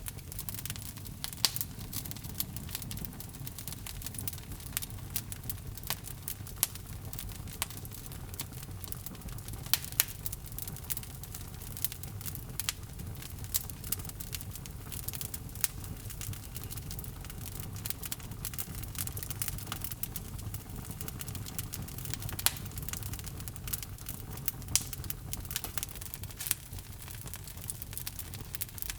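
Wood logs burning in a fireplace: a steady low rumble of the flames with frequent irregular sharp crackles and pops throughout.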